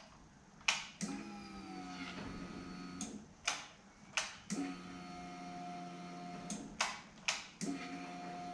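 Newly replaced electric fuel pump of a 2009 Honda CB400 priming in three runs of about two seconds each, a steady hum, with sharp clicks between the runs. The pump is working and building pressure.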